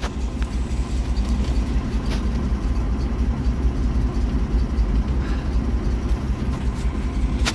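REO-built US6 truck's Hercules JXD flathead straight-six idling steadily and smoothly, running on a freshly rebuilt Carter 565-S carburetor.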